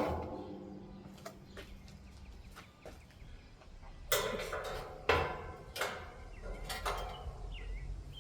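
Handling noises: a few sharp knocks and clicks from a hand tool working on a vintage box fan's metal blade and cage, coming about four seconds in and then once a second or so.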